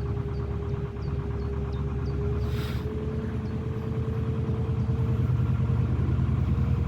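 Narrowboat's Lister SR2 two-cylinder air-cooled diesel engine running steadily under way, a low rhythmic throb with a steady tone over it.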